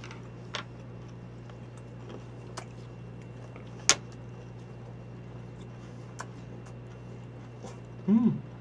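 Quiet chewing of fried food with closed mouths: a few faint mouth clicks and one sharper click about four seconds in, over a steady low hum. A short voiced murmur near the end.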